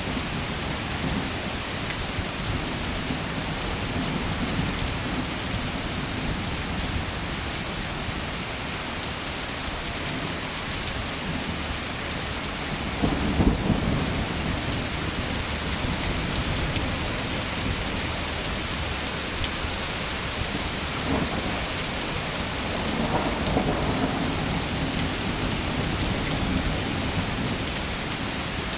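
Steady rain, a dense even hiss, with a low rumble of thunder about halfway through and fainter rumbles a little later.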